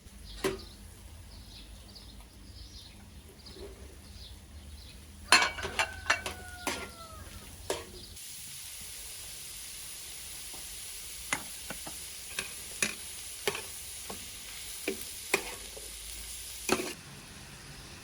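Food frying in a pan, with utensil knocks and scrapes against it. A steady sizzle sets in about eight seconds in, with more knocks on top, and cuts off shortly before the end.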